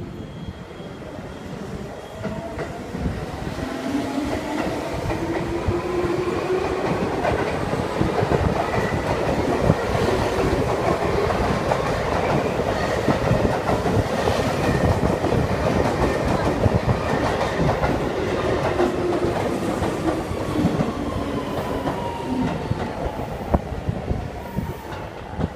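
Electric commuter train passing close by on the adjacent track. Wheels clack over the rail joints, and a humming tone rises and then falls as the cars go by. It builds over the first few seconds and is loudest through the middle.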